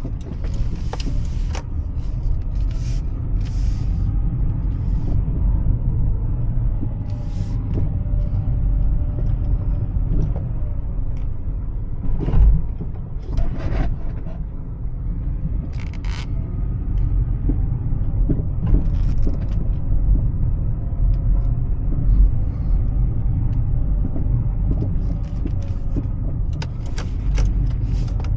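Cabin sound of a Honda CR-V driving slowly: a steady low rumble of engine and tyres, with a faint engine tone that rises and falls. Scattered short clicks and knocks.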